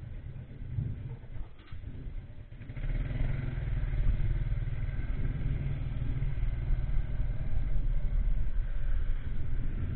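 Motorcycle being ridden on the road: steady engine and road noise, quieter for the first couple of seconds and louder from about three seconds in.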